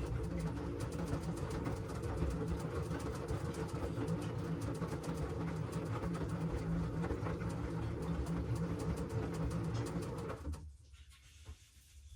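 LG washing machine on a wash cycle: the drum motor runs with a steady low hum while the load and water tumble with a fine, continuous crackle. The drum stops for a pause near the end.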